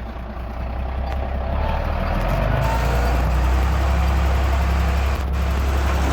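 Heavy diesel engine of earthmoving machinery running steadily, getting louder over the first two seconds, with a brief click about five seconds in.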